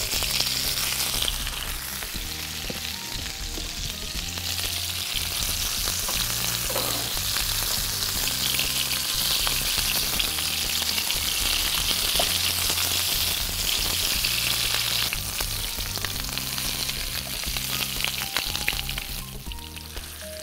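Stuffed bitter gourds sizzling steadily as they shallow-fry in hot soybean oil in a non-stick frying pan.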